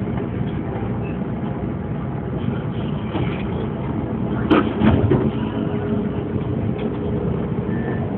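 CTA rapid-transit train running along the track, a steady rumble with one sharp clank about halfway through and a faint steady whine after it.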